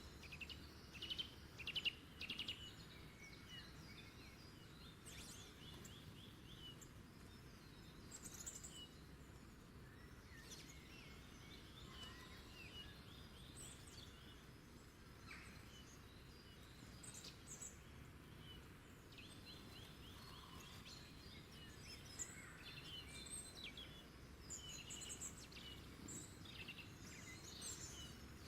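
Several small birds chirping and singing faintly, with rapid repeated-note trills and scattered high chirps, over a steady low hiss. The loudest trills come in the first few seconds.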